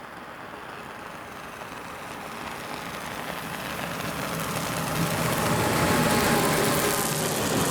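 A train approaching, growing steadily louder, with a steady locomotive hum coming through about halfway in.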